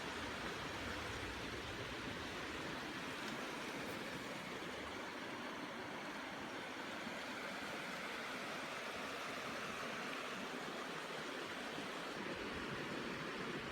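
Steady rush of a river flowing, an even hiss of water with no breaks.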